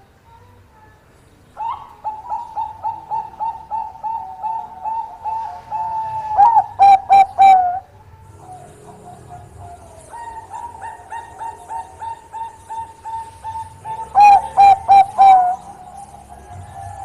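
Zebra dove (Bangkok perkutut) cooing: two song phrases, each a run of quick, even coos that ends in four loud drawn-out notes.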